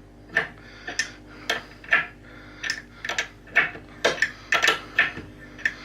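Metal hand tools clinking and clicking against each other and against metal, a dozen or so irregular sharp clicks with brief ringing, as tools are handled and picked out for tightening a brass fitting.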